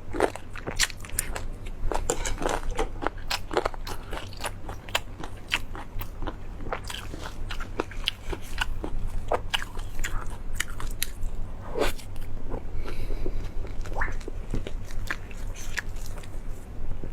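Close-miked eating: crisp, crunchy bites and chewing, many sharp crunches a second, coming irregularly.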